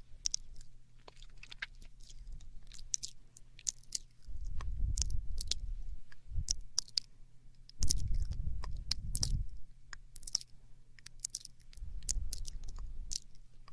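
Close-miked ASMR mouth sounds: a steady run of wet, sharp clicks and smacks of tongue and lips. Three times, about four, eight and twelve seconds in, a louder low rumble joins them for a second or two.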